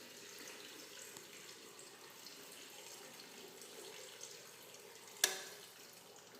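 Washing machine paused before its spin: faint trickling of water, then one sharp click about five seconds in as the machine clunks into gear.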